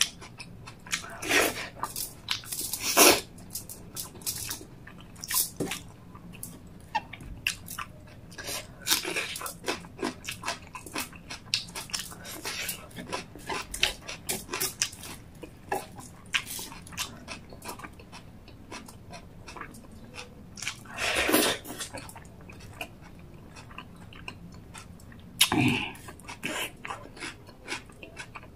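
Close-miked eating: wet chewing and lip smacking of a mouthful of rice and chicken gravy, a run of small clicks and smacks with a few louder, longer mouth noises near the start, about two-thirds of the way through and near the end.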